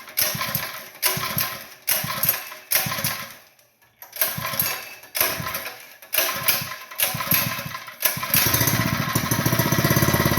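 Small four-stroke engine on a trash pump being pull-started over and over, about one pull a second, each pull turning it over briefly before it fades. About eight seconds in it catches and keeps running.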